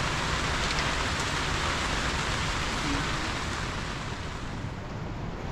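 Steady rain falling, an even hiss that eases slightly about four seconds in.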